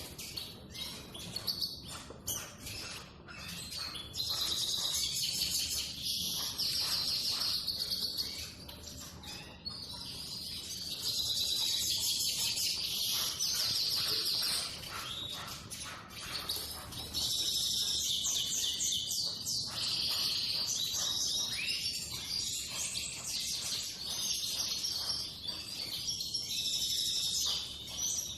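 Eurasian siskin singing: long, high-pitched twittering song phrases of rapid warbled notes, several seconds each, separated by short pauses.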